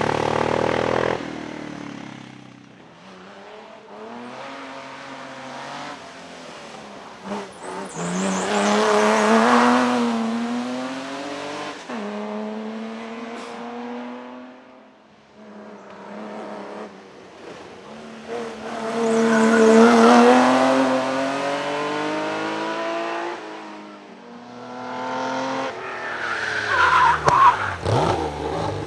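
Vintage racing car engines revving hard as cars accelerate past one after another, the pitch rising and dropping with gear changes. A run of sharp cracks comes near the end.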